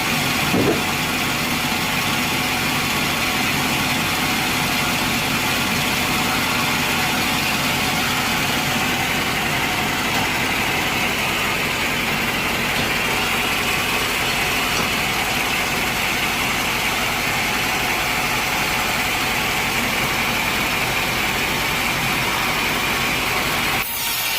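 An engine running steadily, a constant drone with a hiss, which cuts off abruptly near the end.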